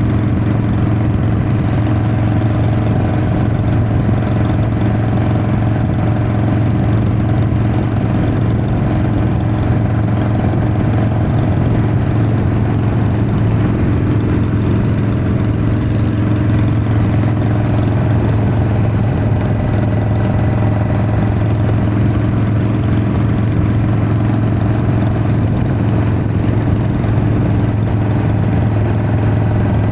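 Harley-Davidson Sportster XLH's V-twin engine running at a steady pitch on the move, holding a constant speed.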